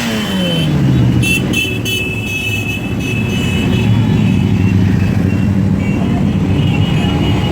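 Motorcycle engines: one winds down with a falling pitch at the start, a horn gives several short toots about a second in, and then engines rumble steadily with a slight rise near the end.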